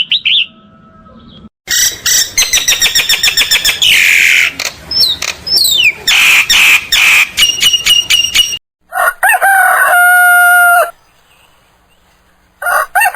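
Chickens clucking and squawking in quick strokes for several seconds, then a rooster crowing: one long crow about nine seconds in, and a second crow beginning near the end.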